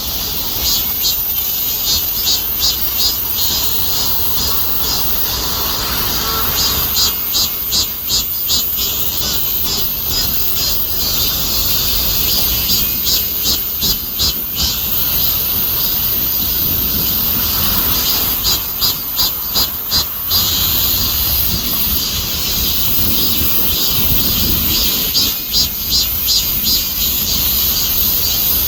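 Cicadas singing: a steady high-pitched buzz, with rapid pulsing phrases that swell in every five or six seconds and last about two seconds each.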